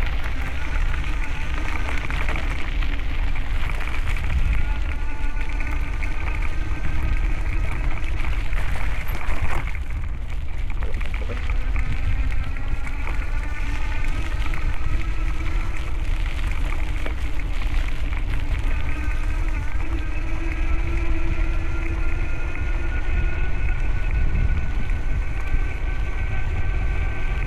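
Wind buffeting the microphone with a heavy low rumble while riding a bicycle. Over it runs a steady hum whose pitch slowly drifts up and down.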